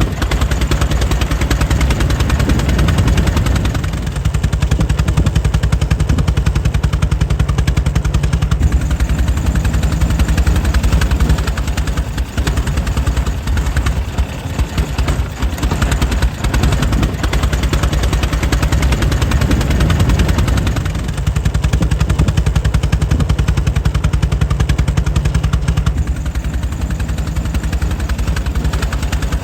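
Air-cooled 1904 Mitchell engine running steadily, a fast, even string of firing beats.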